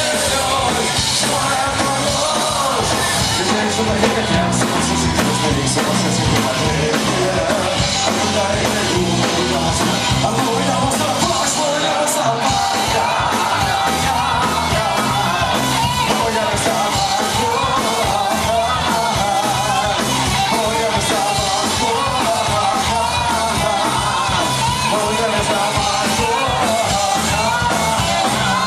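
Live punk rock: a band playing loud and steady with drums and a yelled, shouted lead vocal.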